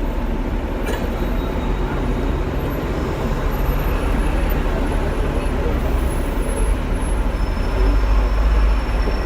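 Hong Kong double-decker tram running along the street, a steady rumble from its motors and wheels on the rails, heard from on board, growing louder near the end.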